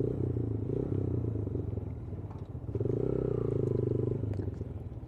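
Yamaha YBR 125G's single-cylinder four-stroke engine running under way, its note swelling louder about three seconds in.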